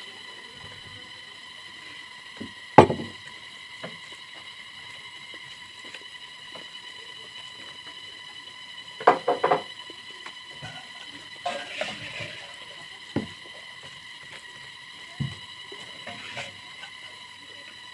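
Close-up eating sounds: scattered knocks and clinks against a plate and chewing and mouth noises, with one sharp knock about three seconds in and a quick cluster of them around nine seconds. A faint steady high whine runs underneath.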